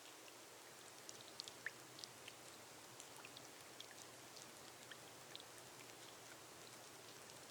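Soft, steady rain on a glass roof: an even hiss with many individual drops ticking sharply against the glass.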